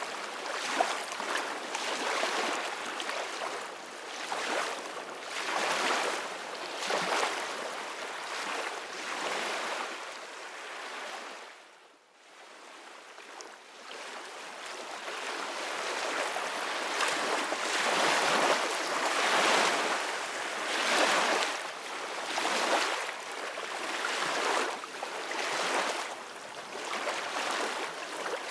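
Ocean surf: waves washing in, the noise swelling and ebbing every second or two. About twelve seconds in the sound fades almost away, then builds back up.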